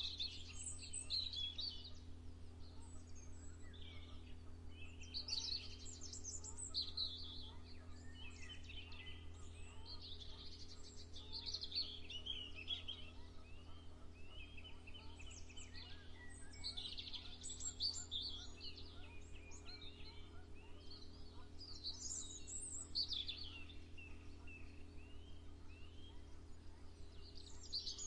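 Songbirds singing in bursts of high chirps and trills every few seconds, several songs overlapping, over a faint steady low hum.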